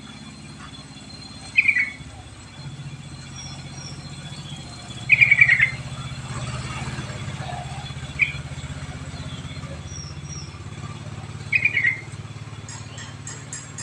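Yellow-vented bulbul (trucuk) calling in four short bubbly phrases a few seconds apart, over a steady low hum.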